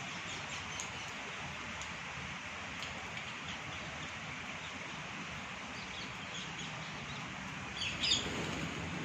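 Parrots chirping: scattered short, high chirps over a steady hiss, with a louder cluster of calls about eight seconds in.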